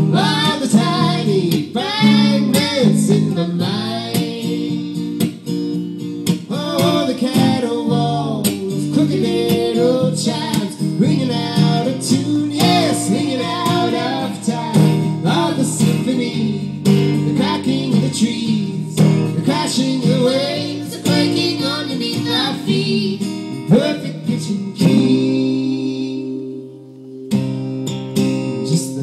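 Live acoustic folk music: acoustic guitar strummed under singing or a gliding melody line. It thins out near the end, dips briefly, and then comes back in.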